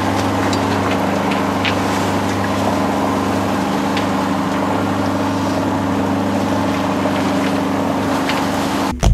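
Engine of a small sailboat running steadily as it motors out under power, a low even hum with the rush of water and wind over it and a few faint ticks.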